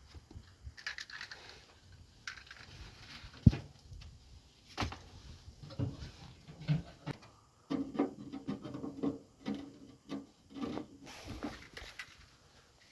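Wood being handled: sticks knocked and rubbed together with scraping and rustling, and a sharp knock about three and a half seconds in that is the loudest moment.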